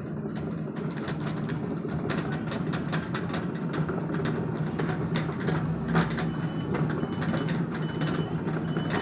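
Sumitomo SH 75 excavator working: its diesel engine runs steadily while many sharp metallic clanks and knocks come through, with one stronger knock about six seconds in. A faint high beep repeats in the second half.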